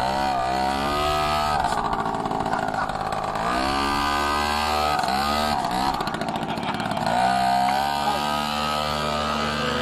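Minibike's small engine revving as it is ridden: the engine note rises sharply three times, near the start, about three and a half seconds in and about seven seconds in, and drops back in between.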